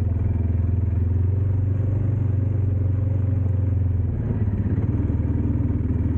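Dirt bike engine running steadily at low revs, easing off slightly about four seconds in.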